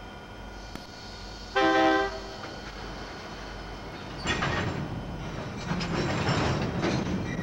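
A short, loud train horn blast about a second and a half in. From about four seconds in comes the rumble and clatter of freight cars rolling past, growing louder.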